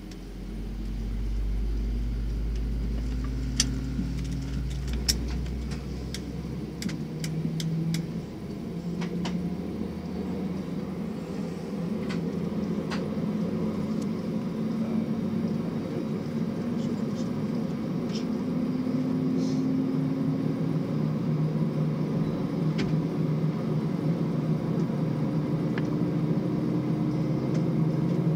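Airbus A320 cabin noise as a CFM56 engine starts: a deep rumble dies away about six seconds in, while a low hum slowly rises in pitch and grows louder as the engine spools up. Scattered sharp clicks come from the cabin.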